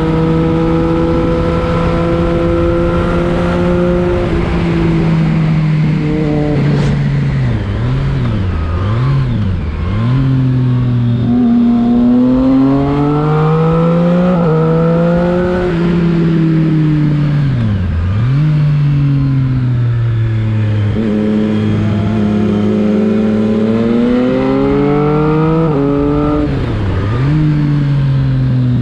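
Triumph Street Triple 675 RX's three-cylinder engine on the road: held steady at first, then the throttle closes and the revs fall and jump in quick blips on downshifts. It then pulls up through the gears, the pitch climbing and dropping briefly at each upshift, and falls away again a few times.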